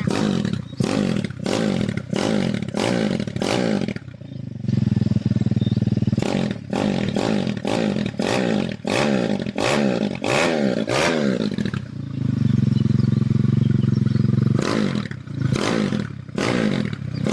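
Bored-up Honda Tiger single-cylinder four-stroke engine (about 260cc) being revved in quick, repeated throttle blips, with two short stretches of steady running between them. To the builder it sounds fairly smooth.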